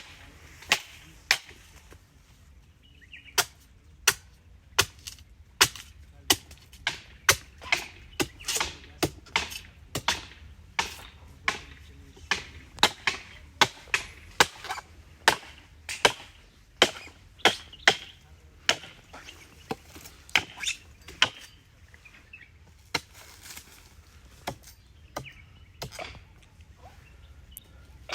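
Sharp hand blades chopping into a date palm trunk as its old frond bases are cut away: a long, irregular run of sharp chops, about two a second, some loud and some faint.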